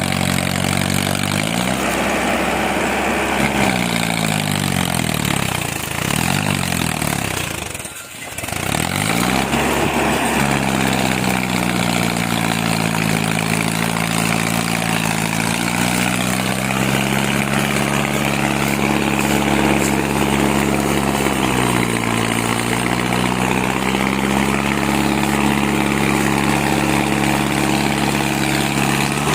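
Mahindra Arjun Ultra 605 tractor's diesel engine running, its pitch falling and rising several times as the revs change. There is a short drop about eight seconds in, after which it mostly holds a steady speed with a couple of brief dips.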